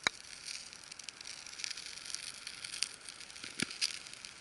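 Campfire crackling and popping, newly caught, with many small clicks and two sharper pops, one right at the start and one about three and a half seconds in.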